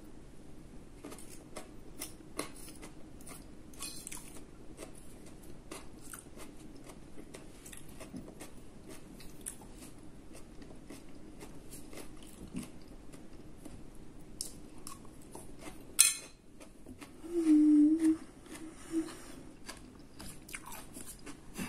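Close-up chewing and mouth sounds of someone eating vegetable salad and pasta, with small wet clicks throughout. A single sharp click comes about sixteen seconds in, and a brief low hum follows shortly after.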